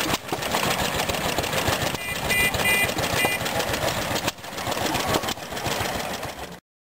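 Vintage stationary gas engines running together with a rapid mechanical chatter, broken by several short high beeps a little after two seconds in; the sound cuts off abruptly near the end.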